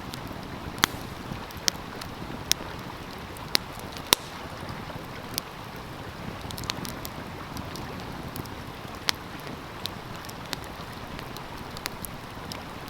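Wood fire crackling with irregular sharp pops over the steady rush of a flowing stream.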